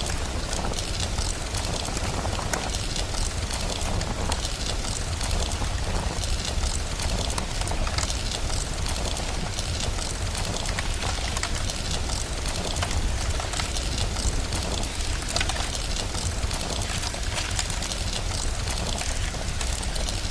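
Steady rain with a crackling fire: an even hiss dotted with many small sharp pops and crackles, over a constant deep rumble.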